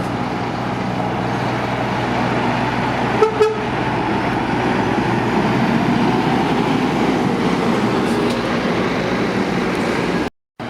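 Steady motorway traffic and heavy-vehicle engine noise, with two quick toots of a vehicle horn about three seconds in. The sound cuts out abruptly near the end.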